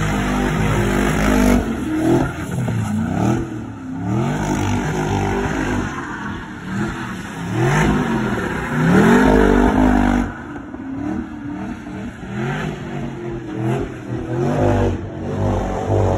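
A car engine revved hard over and over, its pitch sweeping up and falling back again and again. It is loudest about eight to ten seconds in, then drops back.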